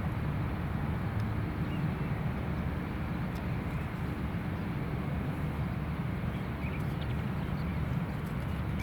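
Distant Boeing 747 freighter's jet engines, a steady low rumble as the aircraft climbs out after takeoff.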